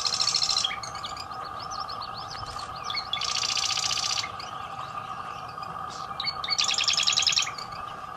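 A songbird singing three loud, rapid trills, each about a second long and roughly three seconds apart. Other birds chirp softly between the trills, over a steady mid-pitched drone.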